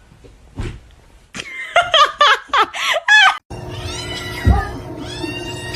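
A person laughing hard in a run of loud bursts. About three and a half seconds in the sound cuts off abruptly and a different scene begins, with a steady hum under high, gliding calls.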